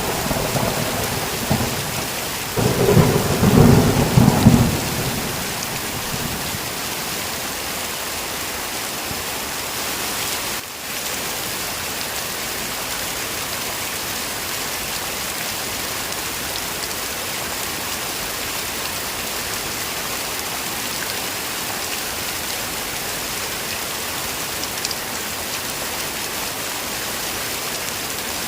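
Heavy rain falling steadily, with thunder in the first few seconds: the tail of a clap dies away at the start and a second rumble rolls through from about two and a half to five seconds in. The rain then continues alone.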